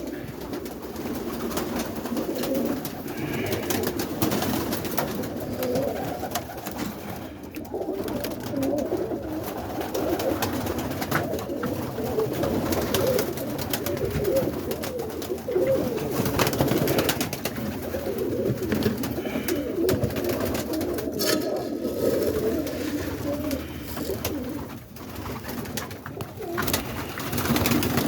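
A loft full of roller pigeons cooing continuously, many calls overlapping. Scattered faint clicks run through it.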